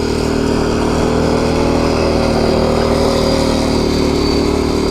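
Mini tractor puller's engine running loud and steady, its pitch rising slightly around the middle, with a high whine over the engine note.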